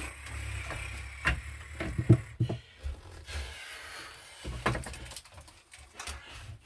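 Scattered clicks and knocks of metal electrical hardware being handled by hand, MC cable and its connector being worked into a box, over a low rumble.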